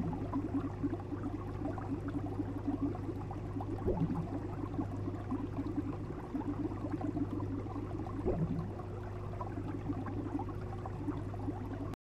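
Aquarium water bubbling and gurgling over a steady low hum from the tank's pump, with a brief rising swish about every four seconds.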